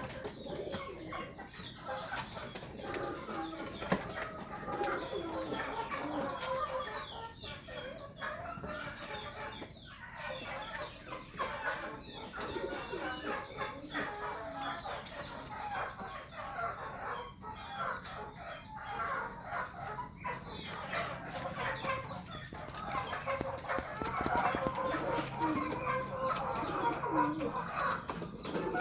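A flock of domestic birds calling continuously in overlapping calls, with short sharp clicks scattered throughout.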